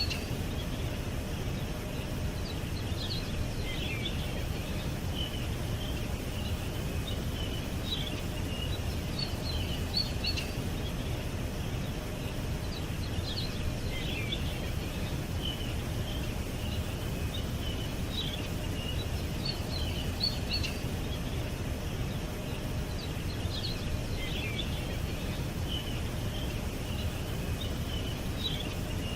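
Small birds chirping in short, high bursts every few seconds over a steady low rumble of background noise.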